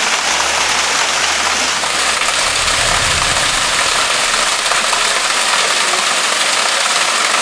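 Spring water falling and splashing over rocks, a steady rush. A brief low rumble comes about three seconds in.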